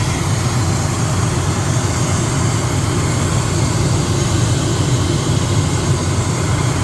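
ATR 72 turboprop engine running steadily on the ground: an even, low drone with a hiss over it.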